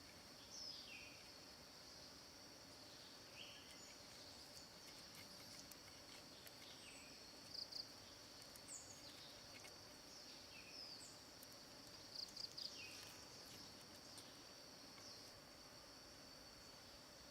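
Steady high-pitched insect drone, from crickets or similar insects, with scattered short chirps over it; a quick cluster of chirps about eight seconds in and another about twelve seconds in stand out as the loudest.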